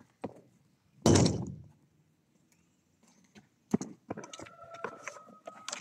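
A single heavy thump with a short ringing tail about a second in, then scattered light taps and clicks.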